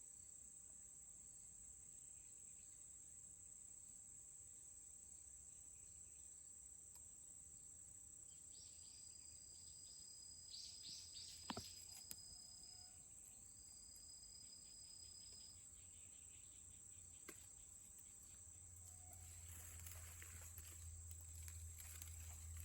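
Near silence: faint outdoor ambience with a steady high-pitched hiss, a short thin whistled call about halfway through, and a single sharp click.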